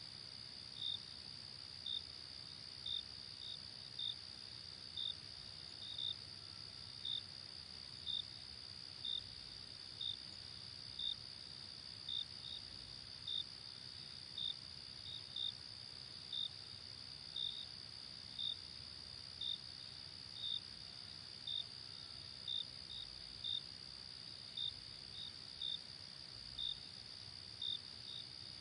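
Night ambience of crickets: a steady high insect trill, with a single cricket chirping about once a second over it, and a faint low background hum.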